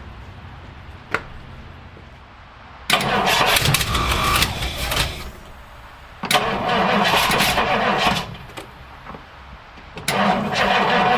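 The 1962 Ford Galaxie's V8 being cranked over in three tries of about two seconds each, the third still going at the end, after a single click about a second in.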